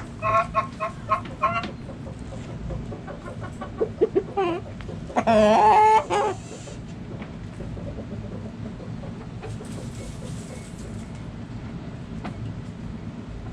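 Backyard chickens clucking in a quick run of short calls, a few more clucks about four seconds in, then one loud wavering call lasting just over a second; after that only a low steady background hum.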